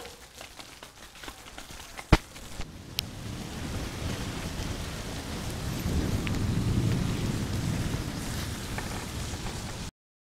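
Steady rain hissing down on a street, with a sharp click about two seconds in. From about four seconds a low rumble swells up under the rain, then the sound cuts off just before the end.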